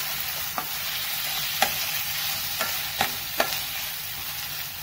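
Chopped onions sizzling in hot oil in a nonstick frying pan as they are stirred with a slotted spatula, the spatula clicking against the pan about five times.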